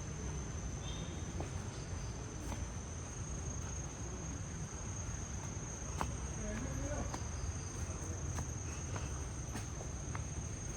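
Insects, crickets by the sound of it, keep up a steady, high-pitched trill on a single unbroken tone. Under it is a low rumble, and a few soft clicks come through.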